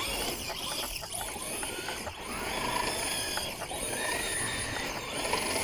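Traxxas Slash radio-controlled truck driving, its electric motor whining and rising and falling in pitch several times as it speeds up and slows, over a steady hiss of tyres on the ground.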